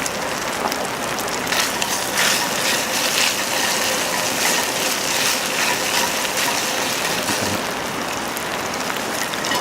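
Sizzling and crackling of food cooking over a wood fire on a campfire grill: a steady hiss with scattered sharp crackles, busiest in the first few seconds.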